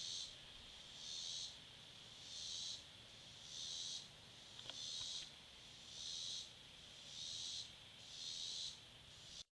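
Insects calling in the background: a faint, high, rasping pulse repeats evenly about once a second, about nine times.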